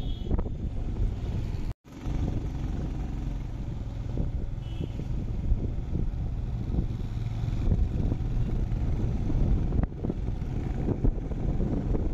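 Motorcycle engine running on the move, with wind buffeting the microphone. The sound cuts out for an instant about two seconds in.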